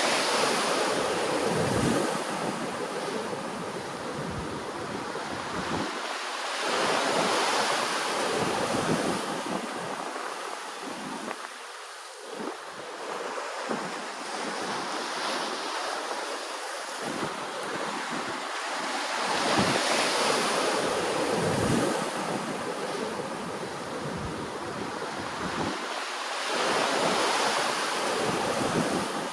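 Ocean waves breaking and washing in, the surge swelling and fading every several seconds.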